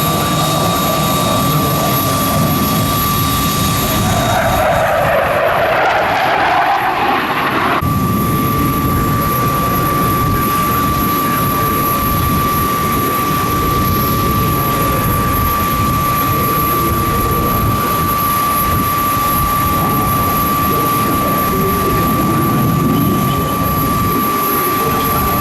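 Leonardo AW249 Fenice twin-engine attack helicopter flying a display pass, its turbines and rotor giving a loud, steady noise with a constant high whine. The sound changes abruptly about eight seconds in.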